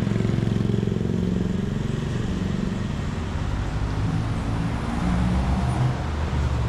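Road traffic on a city avenue: car and motorcycle engines running as vehicles pass, over a steady hiss of traffic noise.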